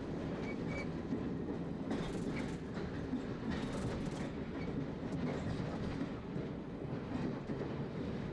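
London Underground A Stock train running, heard from the driver's cab: a steady rumble with occasional clicks and knocks from the wheels on the track.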